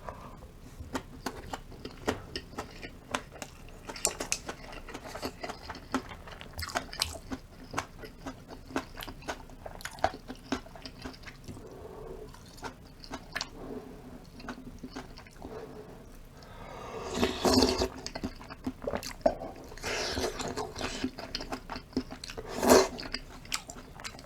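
Close-miked eating: wet chewing and crunching with many small mouth and utensil clicks, and a louder, longer noisy sound about seventeen seconds in.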